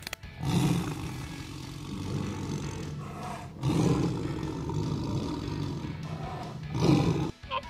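Tiger roaring: three long, rough, deep calls in a row, the last one shorter.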